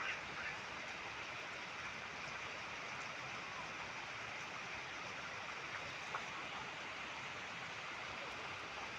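Steady rain falling, a constant hiss with a few louder single drops, once just after the start and again about six seconds in.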